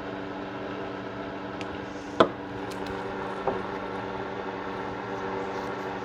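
Gun cleaning handled on a hard surface: one sharp knock a little over two seconds in and a lighter one about a second later, over a steady background hum.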